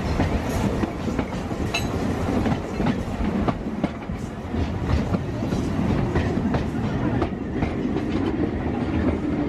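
A narrow-gauge railway carriage running along the track, with a steady rumble and many irregular sharp clicks of the wheels on the rails.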